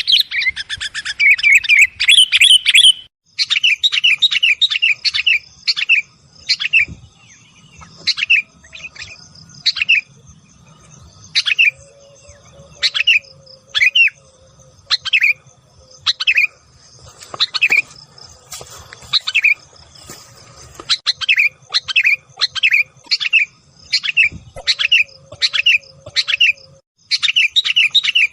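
Sooty-headed bulbul (kutilang) calls of the kind played as a lure to draw in wild birds. A burst of fast chattering is followed, after a short break, by a quick run of notes, then single sharp notes about one a second, with fast chattering again near the end.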